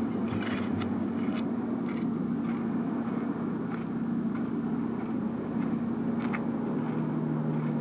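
A steady, engine-like hum with a constant low tone; a second, lower tone joins near the end.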